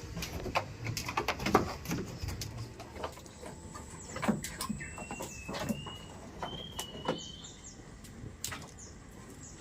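Scattered sharp clicks and knocks, with a bird calling a short run of thin, high notes about halfway through.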